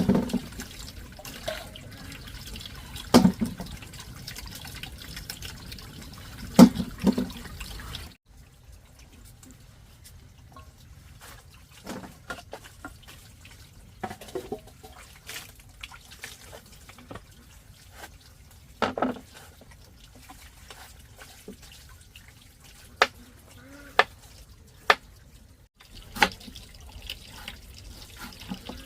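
Water running and splashing, with scattered sharp knocks and clatters. The steady wash of water stops suddenly about eight seconds in and comes back near the end.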